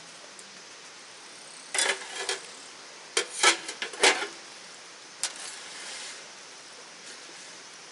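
Metal camping gear clattering and clinking: a couple of sharp knocks near two seconds in, a louder run of clanks from about three to four seconds, and one more knock after five seconds, each with a brief metallic ring.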